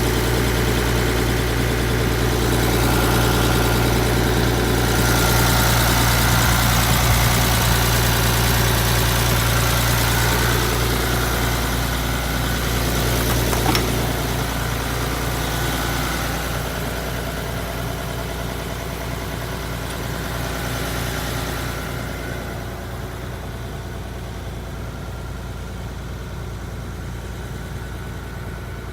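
Hino Ranger truck's diesel engine idling steadily, growing gradually quieter from about halfway through.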